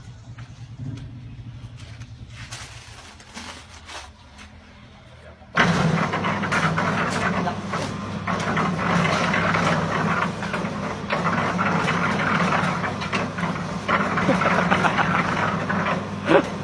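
A motor-driven machine runs with a low hum, then starts up abruptly about five and a half seconds in and keeps running loudly and steadily, a low hum under a broad rushing noise.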